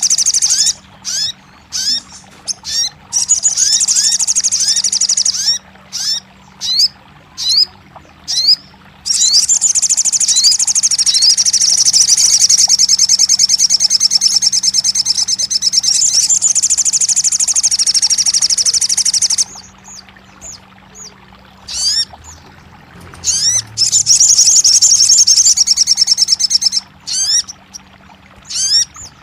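Sogon bird song: high, quick rising chirps, first singly and then in long, very fast trills of repeated notes lasting several seconds, with a break between two trill runs. It is a bird-song recording played to coax a caged sogon that has stopped singing into song.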